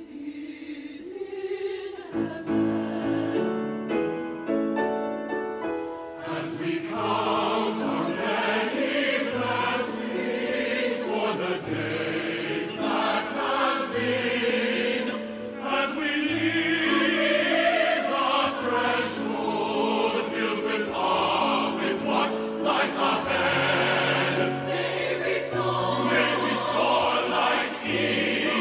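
Church choir singing with instrumental accompaniment, thin at first and coming in full about two seconds in.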